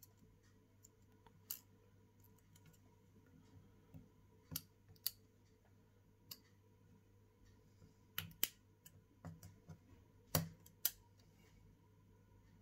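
Small metal repair tools clicking and tapping against an iPhone XR's parts during disassembly: sharp, irregular clicks, with a cluster about two thirds of the way through, over a faint steady electrical hum.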